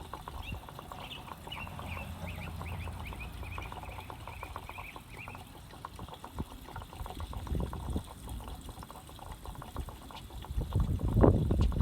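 Gasoline being poured into the fuel tank of a Champion 3400 dual fuel inverter generator through its filler-neck filter, with a louder clunk near the end.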